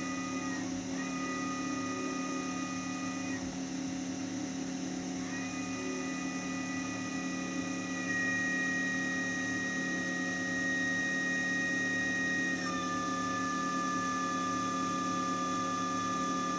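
Steady machine hum with a high-pitched whine above it. The whine breaks off briefly just after the start and again for a couple of seconds a little later, then returns and drops in pitch in two steps.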